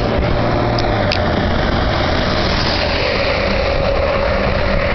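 A motor vehicle running: an even rush of noise with a low, steady engine hum beneath it.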